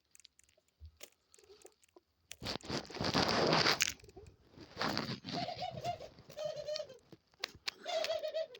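Pet dove cooing, three short steady notes in the second half. They follow a loud rustling burst about two and a half seconds in.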